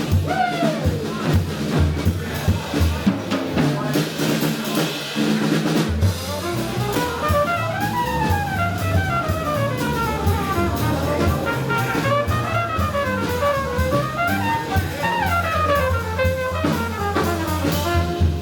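Live jazz combo playing: drum kit with rimshots and bass drum under a walking bass line. About six seconds in, a lead instrument starts playing fast runs that rise and fall.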